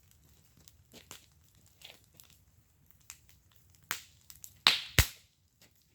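Wood fire in a fire pit crackling with scattered small pops, then a few much louder sharp snaps about four to five seconds in.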